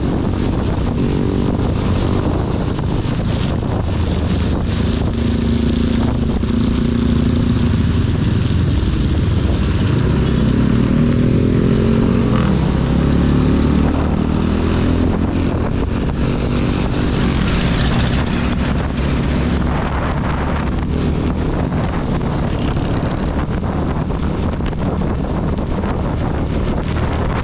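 Honda CB250 motorcycle engine running under way in heavy rain, its pitch rising and falling with the throttle around the middle, under a steady rush of wind and rain noise on the microphone.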